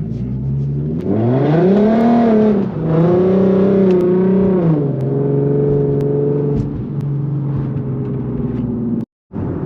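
Infiniti Q50's engine revving up about a second in, easing off briefly near three seconds, holding higher revs, then dropping back to a steady lower run about five seconds in.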